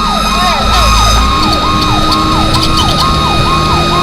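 Fire engine's electronic siren wailing in a fast yelp, each sweep jumping up, holding briefly and falling, about twice a second, over a steady high tone and the rumble of the truck.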